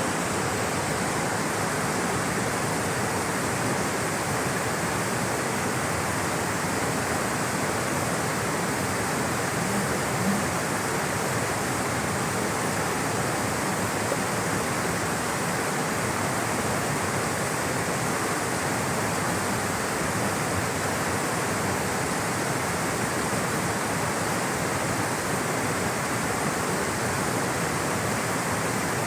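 Rushing, flowing water: a steady, even rush that doesn't let up.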